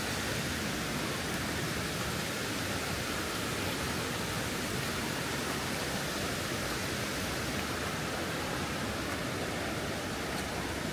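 Steady, even rushing of water, without breaks or distinct events.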